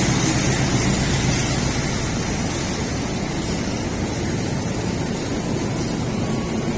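A train running past on the rails, a steady loud rush of wheel and rail noise that eases slightly over the first couple of seconds and then holds level.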